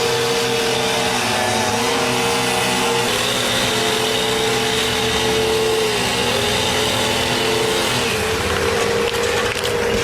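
A motor engine running steadily, its pitch dipping briefly a few times as though it takes load.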